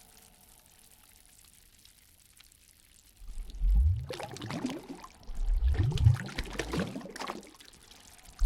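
Water gurgling and sloshing in surges. It is faint for the first three seconds or so, then comes in louder pulses about every two seconds, each with a rising gurgle.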